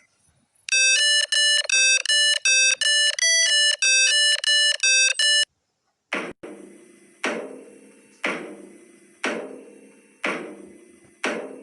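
Electronic music: a quick run of about a dozen beeping synthesizer notes, then, after a short pause, a bell-like chime struck six times about once a second, each ringing and fading.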